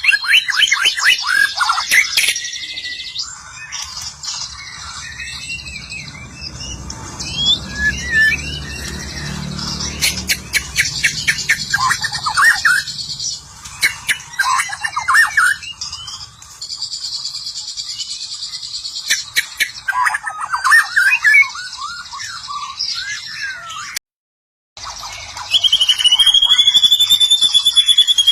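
White-rumped shama (murai batu) singing a long, varied song of whistled notes, rapid chirps and trills, breaking off for a moment near the end before a louder wavering whistle.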